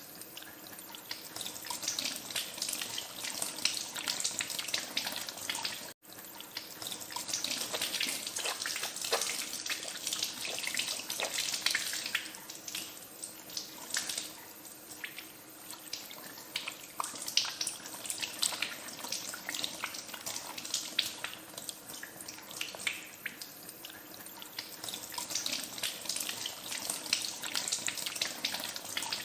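Tap water running into a sink while hands are washed under it, with uneven splashing and spattering throughout. The sound cuts out for an instant about six seconds in.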